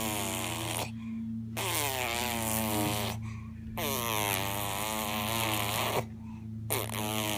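A baby making long, buzzy vocal sounds that waver in pitch, in about four drawn-out bouts with short pauses between them.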